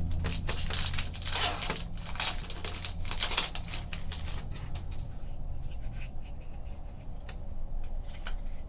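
Basketball trading cards being handled and flipped through: a run of rustling and flicking of card stock, busiest in the first half, thinning to a few light clicks toward the end.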